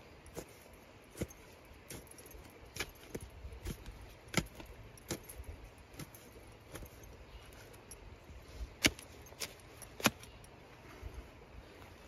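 Digging tool striking into stony soil while a yam is dug out, making irregular sharp clinks and knocks, the loudest about four, nine and ten seconds in.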